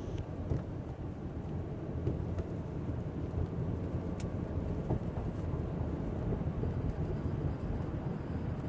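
Steady low buzz and rumble from an Infiniti G35x, with a few faint clicks, one a little sharper about four seconds in.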